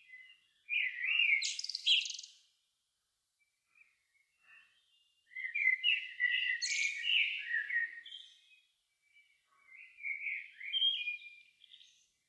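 A songbird singing at dusk: three warbled phrases of about two to three seconds each, separated by short pauses, some ending in higher twittering notes.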